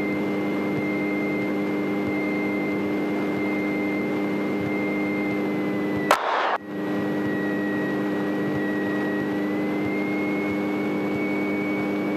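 Single-engine light airplane's piston engine running steadily, heard through the cabin headset intercom with a thin steady whine above it. A click and a brief dropout about six seconds in.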